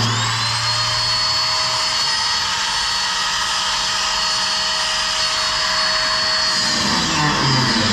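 High-speed electric power tool motor whining: it spins up at the start, runs at a steady pitch, then slows sharply near the end.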